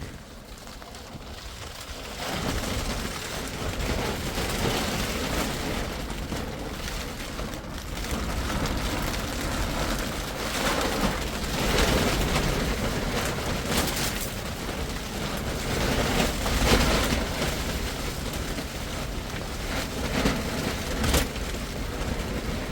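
Stormy wind and rain, with gusts swelling every few seconds and buffeting the microphone with a low rumble.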